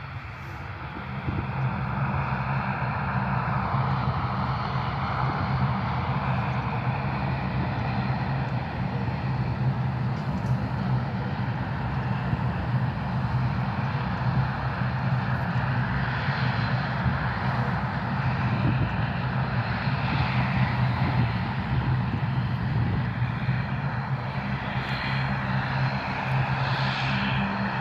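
Airplane engines running steadily: a constant low hum over an even engine rush, growing louder about a second in.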